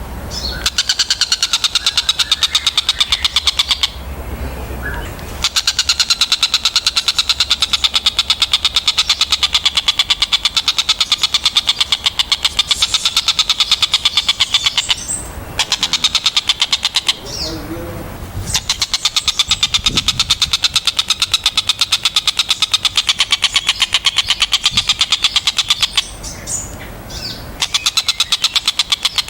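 Tengkek buto kingfisher calling in a fast, continuous chatter of rapidly repeated sharp notes, broken by a few short pauses.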